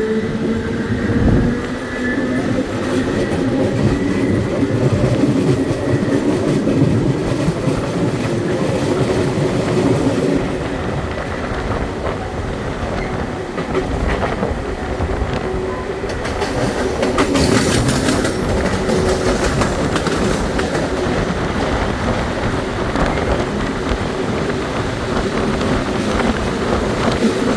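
Belo Horizonte Metro Série 900 electric multiple unit running along the line between stations, a steady rumble of wheels on rails with a brief high-pitched burst about two-thirds of the way through.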